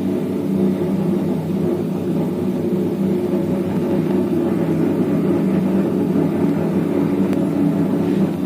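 Convection microwave oven running on preheat: a constant, steady hum made of several steady tones.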